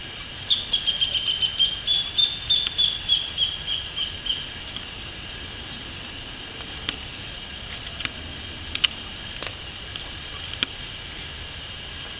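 A bird calling a fast series of short repeated notes, about four a second for some four seconds, over a steady high insect drone. A few separate sharp clicks follow later.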